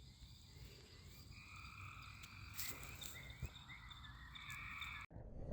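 Faint trilling animal calls, each about a second long, repeating over a chorus of higher chirps. Near the end the sound cuts off abruptly and a low rumbling noise takes over.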